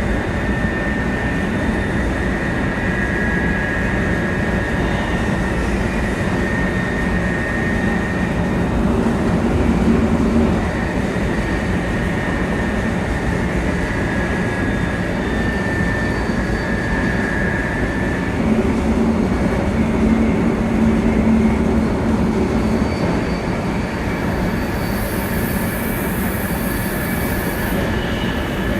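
Running noise inside a 700 series Shinkansen car on the move: a steady rumble of wheels on rail with faint whining tones that come and go. A brief high hiss comes in near the end.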